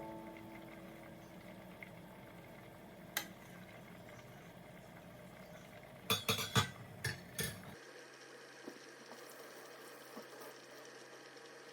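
Kitchen utensils and dishes clinking: one sharp clink about three seconds in, then a quick run of clinks and knocks between about six and seven and a half seconds, over low kitchen room tone.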